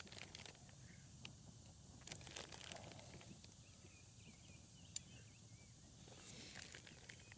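Near silence with faint scattered ticks and crackles, one sharper tick about five seconds in, and a few faint high chirps around the middle.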